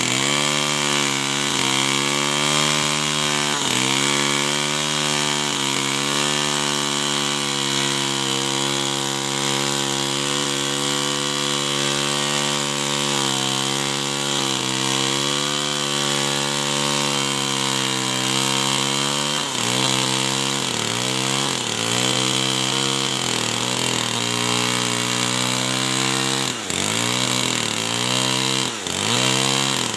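Two-stroke chainsaw running at high revs while cutting wood, its pitch sagging and recovering again and again under load, with deeper dips in the last third.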